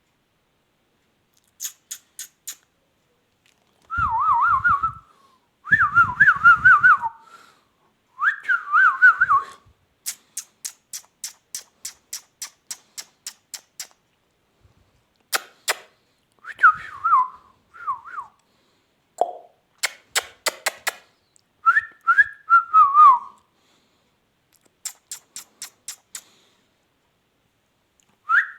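Indian ringneck parakeet whistling: a string of short, warbling whistles that waver up and down in pitch, with runs of quick sharp clicks between them.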